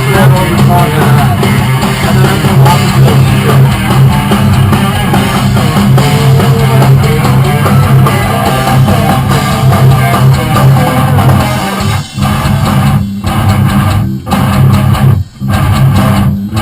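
A rock band playing a loud riff on electric guitar and bass. In the last few seconds the band stops dead four times, about a second apart, leaving short gaps between hits.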